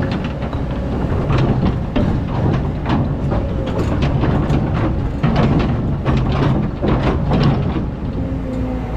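Excavator's diesel engine running under load, with a stream of clanks, rattles and scrapes from the machine digging sand. Near the end the clanking dies down, leaving the engine running steadily.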